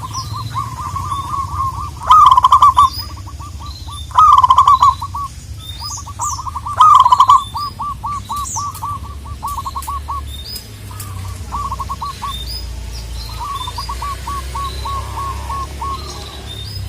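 Zebra doves cooing in fast strings of short repeated notes, phrase after phrase, with three much louder phrases about two, four and seven seconds in. Small birds chirp thinly higher up.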